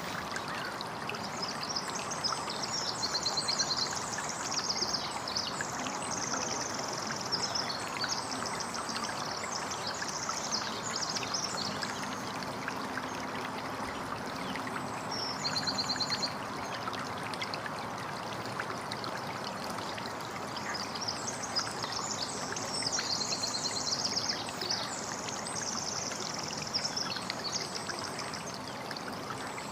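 Steady trickling, splashing water with small birds singing high, rapid trills in repeated bursts over it.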